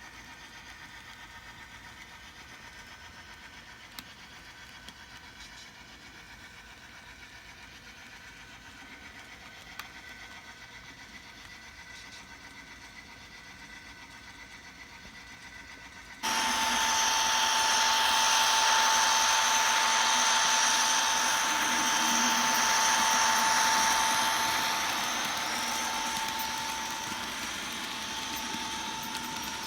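N scale model train running on the layout: a faint steady hum, then about halfway through a much louder steady running noise with a thin whine starts suddenly and eases a little near the end.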